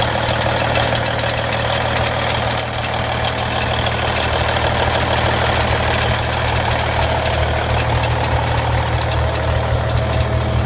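Cummins N14 diesel engine of a 1999 Kenworth W900 highway tractor idling steadily, with a fast light ticking clatter over the low engine note.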